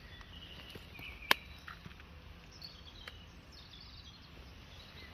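Faint, intermittent bird chirps over a low steady rumble of outdoor ambience, with one sharp click about a second in and a couple of fainter ticks later.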